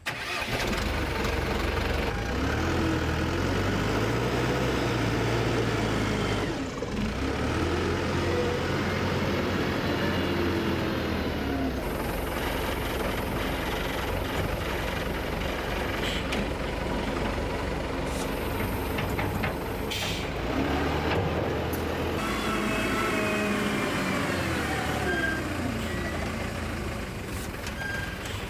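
An engine running, its pitch rising and falling as the revs change.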